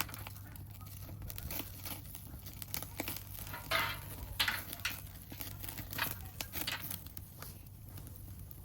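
Irregular crinkling and tearing of wrapping being handled, with scattered short knocks, over a low steady hum.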